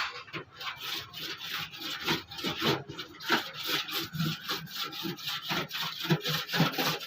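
Rapid back-and-forth rubbing strokes, about three to four a second, from hand sanding to strip the paint off the car body.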